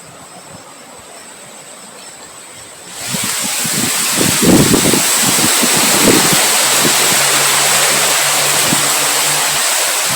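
Wind blowing, rising suddenly about three seconds in to a loud, steady rush, with low buffeting rumbles on the microphone.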